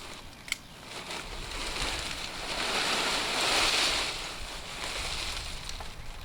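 Water from a hose spraying over lava rock on a rinsing screen, a rushing hiss that swells to its loudest about three and a half seconds in, then eases.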